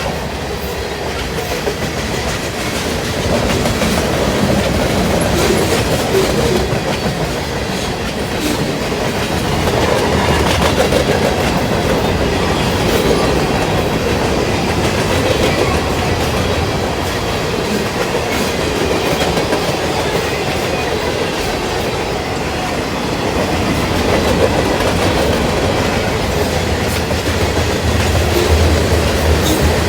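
Norfolk Southern freight train's cars rolling past, wheels clicking steadily over the rail joints.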